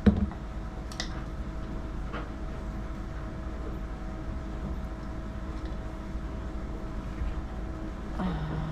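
Quiet electric pet grooming clippers running with a steady low hum, with a sharp knock right at the start and a couple of lighter clicks in the first two seconds.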